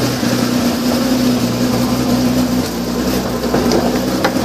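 2010 Nissan GT-R's twin-turbo V6 idling steadily while running without its mass airflow sensors, which makes it run a little rough. A sharp click comes near the end.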